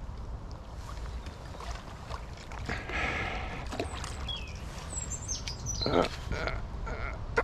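Small birds chirping, with a few quick falling chirps about halfway through, over a steady low rumble and scattered light clicks. A short, louder noise comes about six seconds in.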